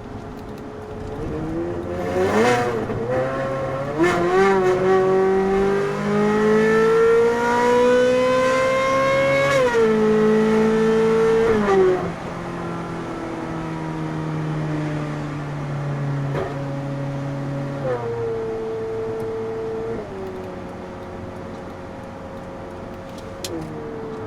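Ferrari 458 Spider's naturally aspirated V8 under way: a quick blip of revs, then a long pull with the engine note rising steadily for about six seconds. The pitch drops at an upshift, drops again, and the engine settles to steadier cruising with a couple of small pitch changes.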